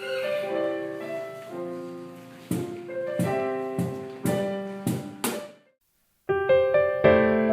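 Piano music: sustained chords punctuated by about six sharp accented hits, then a short break just before the six-second mark, after which the keyboard comes back in with a fuller chord.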